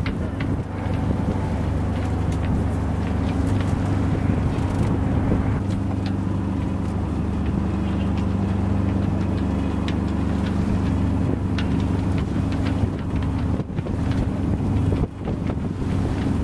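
An Albin Vega 27's inboard engine running steadily as the boat motors through rough water, with wind buffeting the microphone.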